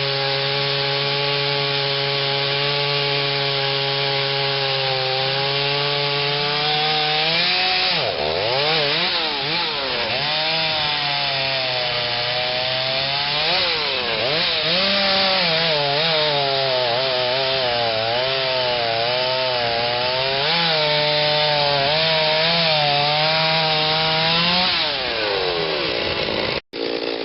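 Stihl 039 two-stroke chainsaw with a modified muffler cutting into oak: the engine holds a steady pitch under load for about seven seconds, then its pitch swings up and down again and again as the chain bogs and frees in the cut. Near the end the pitch falls away and the sound cuts out for an instant.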